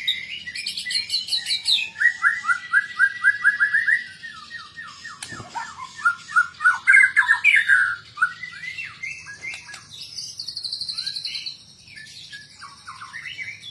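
White-rumped shama (murai batu) singing a fast, varied song packed with mimicked phrases: rapid runs of short repeated notes, loud rising and falling phrases, and a quieter high trill near the end.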